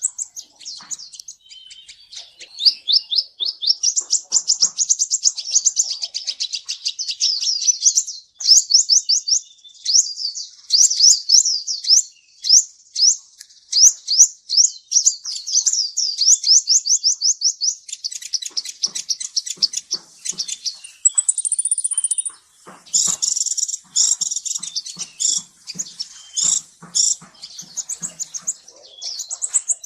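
Kolibri Ninja sunbird singing: long runs of rapid, high-pitched sweeping chirps, then more broken, chattering phrases with a short high whistle about two thirds of the way in.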